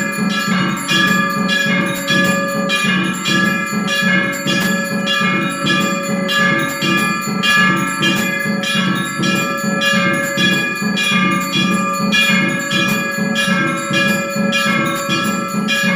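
Bells rung at a quick, steady rhythm during a Hindu puja, each strike leaving a sustained ringing tone that builds into a continuous metallic clangour.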